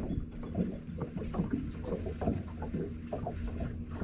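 Water lapping and slapping irregularly against the hull of a drifting fishing boat, over a low steady hum.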